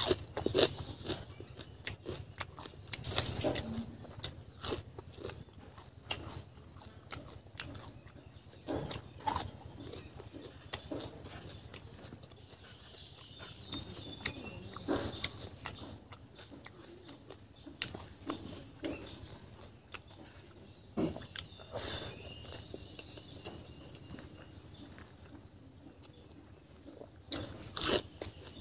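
Close-miked eating sounds: chewing, lip smacking and wet mouth clicks, coming in irregular short bursts.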